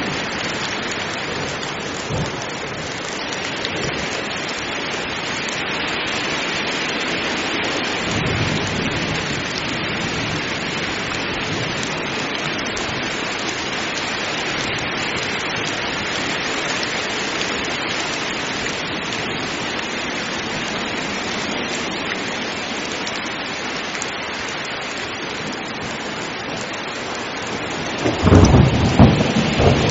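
Heavy rain falling steadily, with a faint rumble of thunder about eight seconds in and a loud thunderclap near the end.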